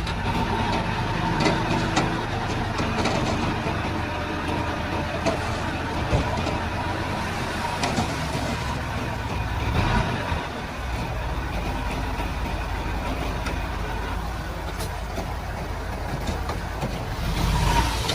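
Crawler bulldozer's diesel engine running steadily under load, with scattered clanks.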